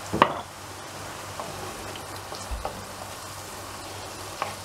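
Diced bell peppers, onion and garlic frying in olive oil in a frying pan, a steady sizzle. A sharp knock comes just after the start, and a few lighter knocks follow as a wooden spoon stirs the pan.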